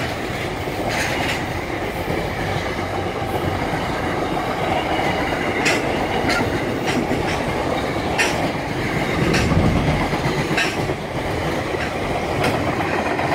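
Freight train wagons, SCT louvre vans, rolling past: a steady rumble of steel wheels on rail with sharp clicks and clanks at irregular spacing, every second or two.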